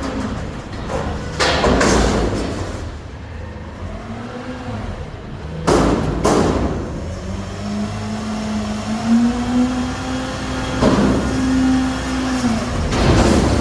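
Garbage truck engine running, its pitch rising in the second half as it revs, with several short bursts of hiss.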